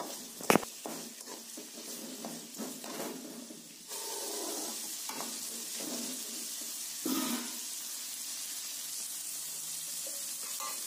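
Sliced bitter gourd, onion and tomato sizzling in a metal kadai while a metal spoon stirs and scrapes the pan. There is a sharp clink about half a second in and a knock near seven seconds, and the sizzle settles into a steady hiss from about four seconds in.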